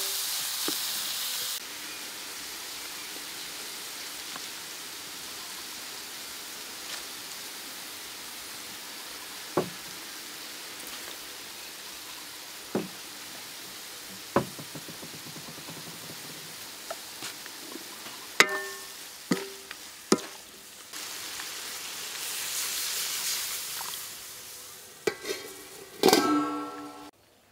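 Pig intestine sizzling as it is stir-fried in a steel wok, with the spatula knocking against the pan now and then. The hiss is louder at the very start and again a little over 20 s in. Near the end the steel wok clanks and rings several times as it is handled.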